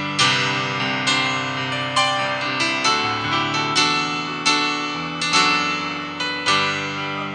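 Piano or electric keyboard playing slow, sustained chords, a new chord struck about every second.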